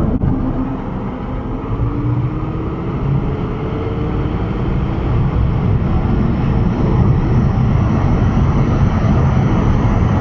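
A car accelerating hard down a drag strip: a rising whine over the first few seconds, then steady heavy road and wind noise that cuts off abruptly at the end.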